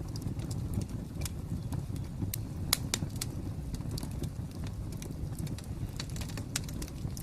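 Fire crackling: irregular sharp pops and snaps over a low, steady rumble, with one louder pop near the middle.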